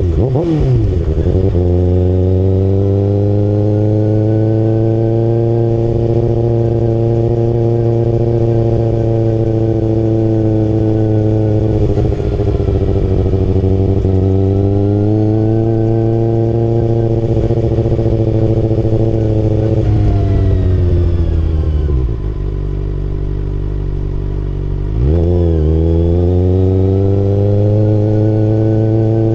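Kawasaki ZX-6R inline-four engine running under way, holding steady revs for long stretches. The revs dip and recover just after the start. About two-thirds through they fall to a lower, quieter steady note for a few seconds, then climb again as the bike pulls away.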